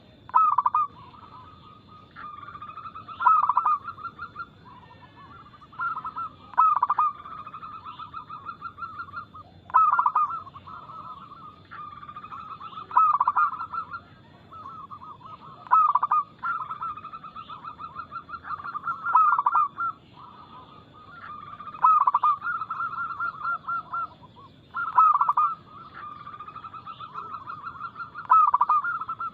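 Zebra doves (perkutut) cooing: phrases repeat about every three seconds, each a loud, sharp note followed by a rapid run of softer, rolling coos.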